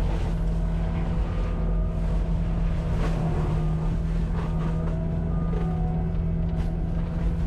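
Cat 259D compact track loader's diesel engine running steadily under load while its forestry mulcher head works, with a few sharp knocks as the head strikes brush and wood.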